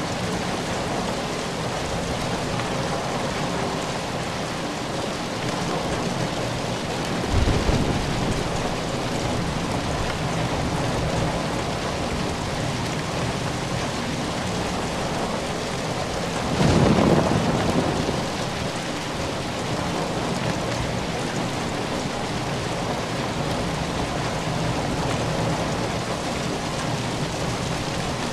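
Steady rain falling, with two brief rumbles of thunder: a short one about a quarter of the way in and a louder, longer one just past the middle.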